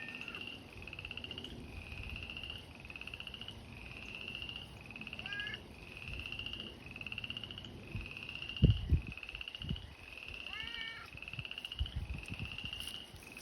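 Frogs calling from a pond: a steady chorus of rasping trills, about one a second, each rising slightly in pitch. A few low thumps sound near the middle.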